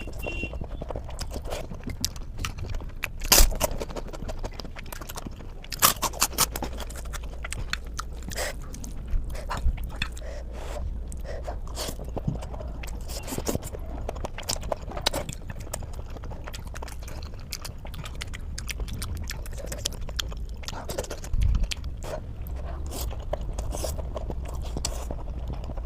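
A person eating close to the microphone: chewing and biting with many wet clicks and smacks, the loudest a few seconds in.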